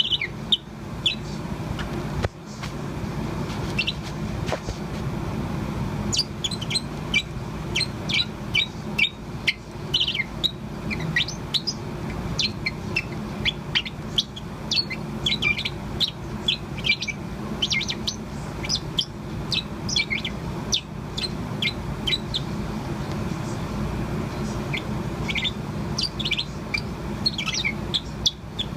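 A young Bourke's parrot warbling: a long run of quick high chirps and short trills, sparse at first and then almost continuous from a few seconds in, over a steady low background hum.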